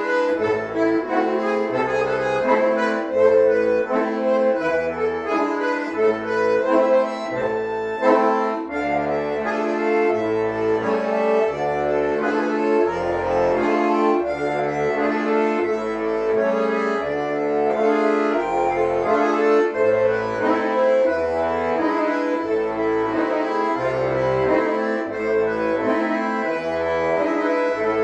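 Two bayans (Russian button accordions) playing a Russian folk tune as a duet: a melody over bass notes that pulse in a steady, even rhythm.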